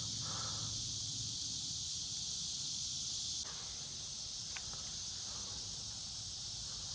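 A steady, high-pitched insect chorus of crickets or cicadas, droning without a break, dipping slightly in level about three and a half seconds in.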